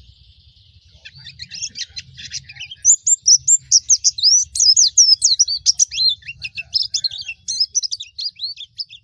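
White-eye (pleci) singing a fast, jumbled twittering song of high chirps and short whistled slurs. It starts faint and becomes full and loud about three seconds in.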